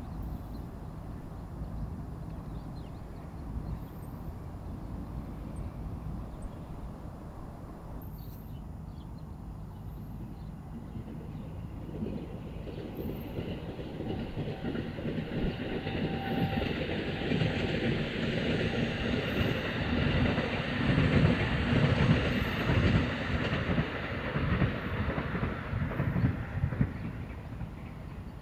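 A train passing on the rails, its wheels rumbling and clacking, building up from about halfway through, loudest near the end, then fading away.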